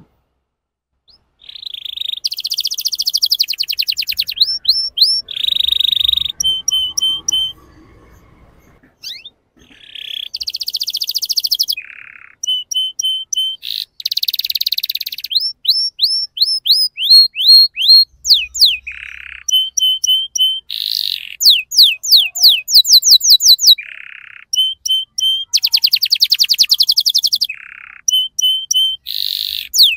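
Young male domestic canary singing a long song of fast trills, quick repeated down-slurred whistles and buzzy rolls, starting about a second and a half in, with a few short breaks.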